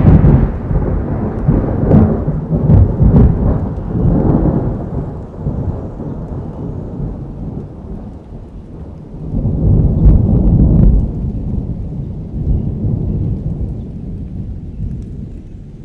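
Thunder rolling over steady rain. A loud rumble at the start fades away, a second rumble swells about ten seconds in, and then it dies down again.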